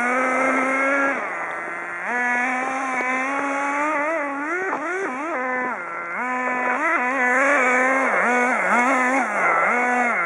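Small nitro glow engine of an RC car (.16–.18 size) running with a high, buzzing note, its revs repeatedly jumping up and dropping back as the throttle is blipped, with rapid up-and-down wobbles in pitch about halfway through and again near the end.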